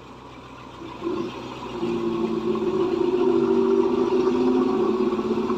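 A vehicle engine running at a steady pitch, growing louder about a second in and then holding steady.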